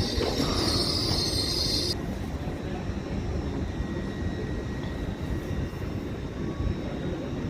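Train wheels squealing against the rail, which stops abruptly about two seconds in, followed by the steady low rumble of the train running through the station.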